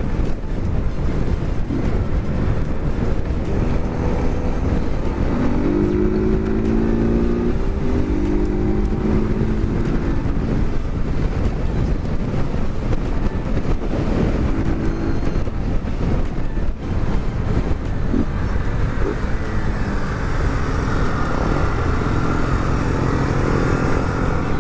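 Honda CG 160 Fan single-cylinder motorcycle engine with a straight-pipe exhaust, running while riding, its pitch rising and falling as the throttle is opened and eased, under heavy wind noise on the microphone.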